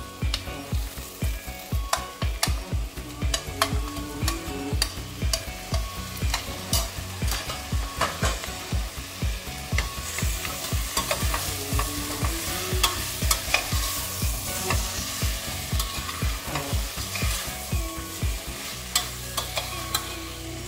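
Vegetables frying in a pressure cooker as chopped tomatoes are added and stirred in with a metal spoon: a steady sizzle with frequent sharp clicks and scrapes of the spoon against the pot.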